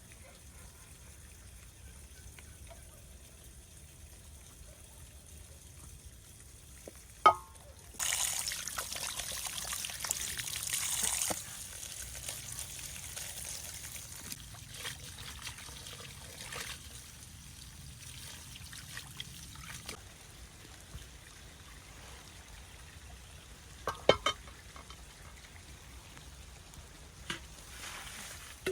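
Liquid being poured for about three seconds, with a softer trickle afterwards and a few sharp knocks of cookware.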